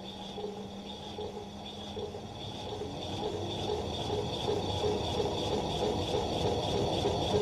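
The 3-phase AC drive motor of an electric-converted BMW E46 spinning the jacked-up wheels, slowly speeding up: a rushing whirr that grows louder, with a repeating once-per-turn pulse that quickens. A steady high-pitched whine runs underneath.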